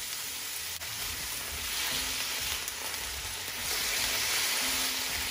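Stir-fry vegetables sizzling in hot oil in a frying pan: a steady hiss that swells about two seconds in and again near the end, with a single sharp click about a second in.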